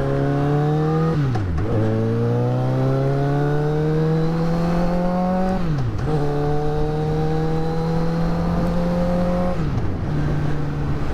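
Motorcycle engine pulling steadily with rising revs, with three gear changes where the revs drop sharply and pick up again: about a second in, around six seconds and near ten seconds.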